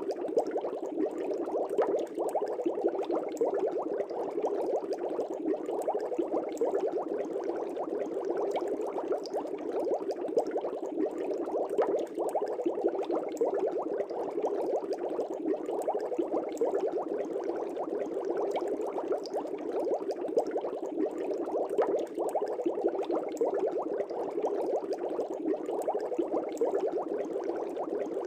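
Steady, dense bubbling of air rising through aquarium water, a constant burble with many small pops and crackles.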